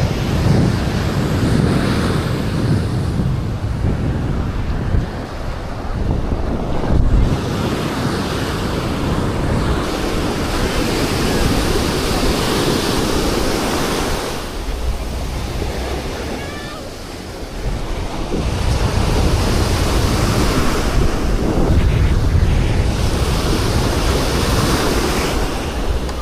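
Sea waves breaking and washing up on a beach, rising and falling in surges, with wind buffeting the microphone.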